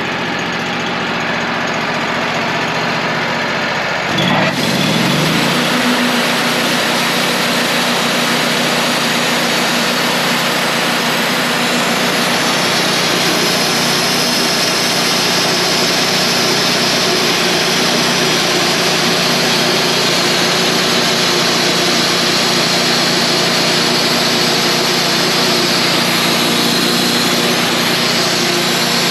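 Wood-Mizer portable band sawmill running: its engine revs up about four seconds in, then holds a steady higher speed while the band blade cuts through the log.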